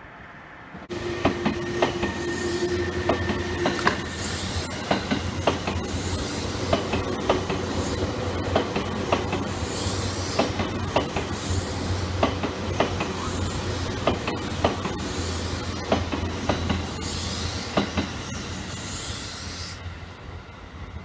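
A yellow Seibu 2000-series electric commuter train rolling past close by, with steady running noise and wheels clacking sharply over rail joints. It starts suddenly about a second in, with a steady high tone for the first three seconds, and eases off near the end.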